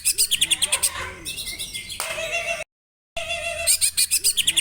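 A songbird sings a run of rapid high chirps and chattering trills. It cuts out to silence for about half a second midway, then the same song phrase starts over.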